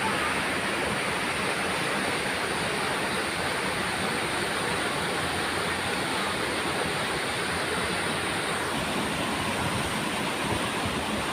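Rushing water, a steady even hiss with no breaks.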